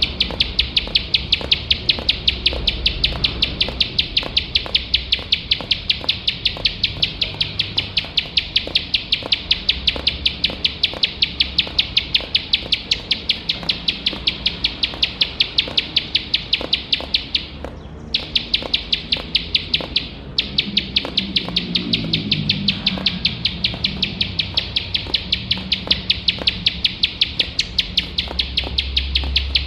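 Ciblek sawah (plain prinia) singing without pause, a fast run of sharp, high, evenly repeated notes, about three or four a second, broken by two short gaps around the middle.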